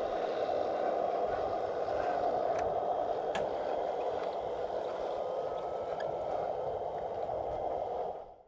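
Radio-controlled scale construction machinery running with a steady mechanical hum, a few light clicks over it, fading out near the end.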